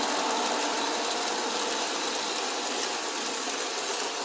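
Two O-gauge model trains running at the same time: a steady mechanical whir of the locomotive motors with a fine, fast rattle of wheels clicking over the track, slowly getting a little fainter.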